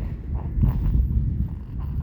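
Low rumbling street noise picked up on a handheld microphone while walking, swelling about half a second in.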